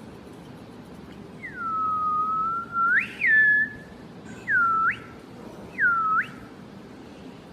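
Whistling in pure single tones: one long note that drops, holds and swoops up sharply, then two shorter notes that dip and flick back up.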